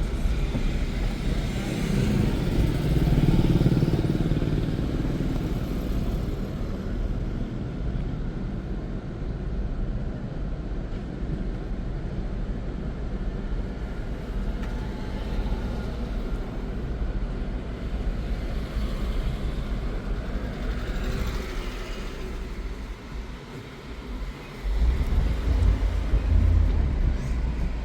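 Steady low rumble of a motor vehicle running, dipping briefly about 23 seconds in and growing louder from about 25 seconds in.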